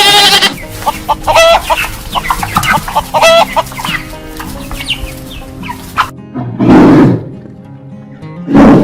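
Chickens clucking and calling in a quick series of short pitched calls over steady background guitar music, followed by two loud, rough, lower sounds near the end.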